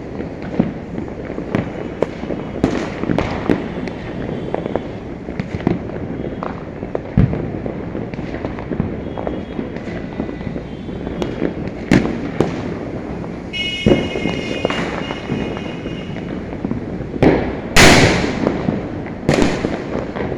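Diwali firecrackers bursting all around: a constant crackle and rumble of distant bangs, with many sharper nearer bursts. Two big echoing booms near the end are the loudest.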